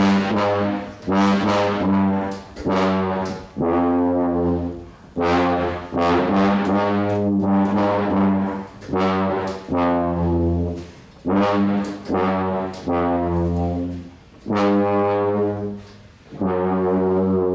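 Brass instruments playing a slow run of loud, held low notes, each lasting a second or two with short breaks between them: a live band's music cue.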